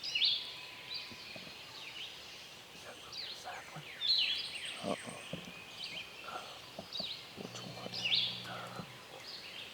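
Songbirds singing and chirping, a chorus of short high calls and quick downward-sweeping notes with several louder phrases. A faint low hum joins in near the end.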